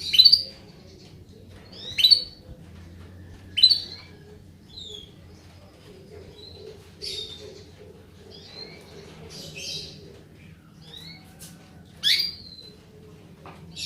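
Female canary calling: short, sharp sweeping call notes, three loud ones in the first four seconds and another near the end, with softer chirps between. These are the female calls used to prompt a silent male canary into song.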